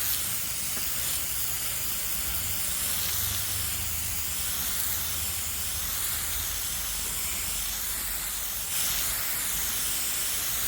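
Bandsaw sawmill running steadily: an even hiss over a low hum, with no change in pitch.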